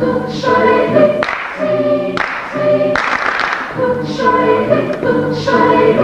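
A university madrigal choir singing a cappella in short phrases about a second apart.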